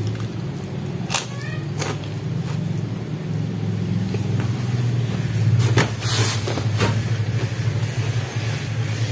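Eating sounds: a man chewing with his mouth open, with a few short sharp clicks or crunches about 1, 2, 6 and 7 seconds in. Under them a steady low hum.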